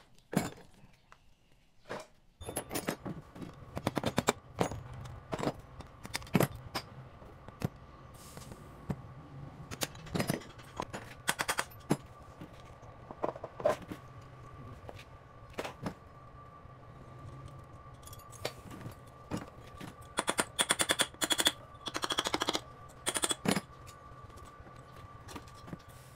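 Workshop work: a steady machine hum starts about two seconds in, with bursts of rapid sharp knocks over it, thickest near the end.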